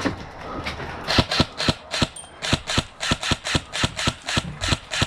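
Airsoft guns firing a string of rapid single shots, sharp pops at about four to five a second, starting about a second in after a short lull.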